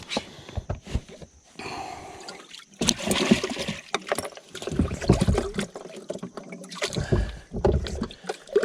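Water splashing and trickling around a fishing boat, with scattered knocks and clicks against the hull and deck.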